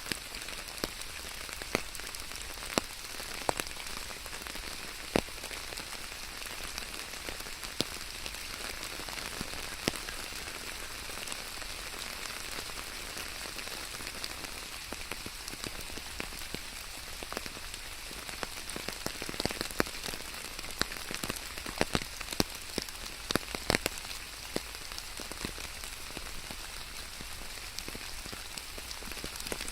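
Steady rain falling, with many sharp single drops striking close by, more frequent from about twenty seconds in.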